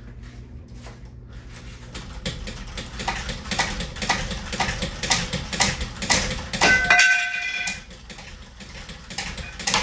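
Rapid clicking, rattling and knocking of hard parts being handled on a ceiling fan that is being taken apart, growing busier after about two seconds. A brief high-pitched tone comes about seven seconds in, as a low hum cuts out.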